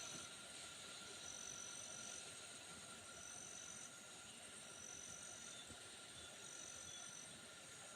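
Quiet pine-forest ambience: a faint steady hiss, with a thin high-pitched call from an insect or bird repeating about every one and a half seconds.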